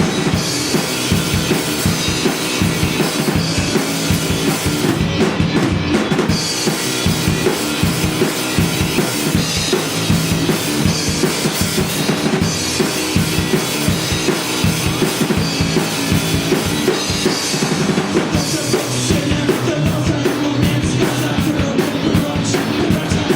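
A live rock band playing, with the drum kit to the fore keeping a steady beat under bass and guitars.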